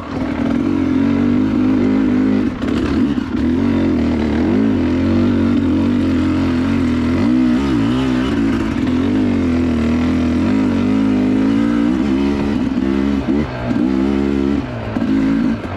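Dirt bike engine running under load, its revs rising and falling continually as the throttle is worked. There are a few brief dips in the engine note near the end.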